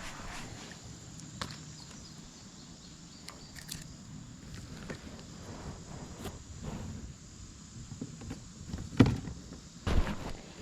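Scattered small clicks and knocks of fishing gear being handled aboard a kayak, with a sharp thump about nine seconds in and another about a second later.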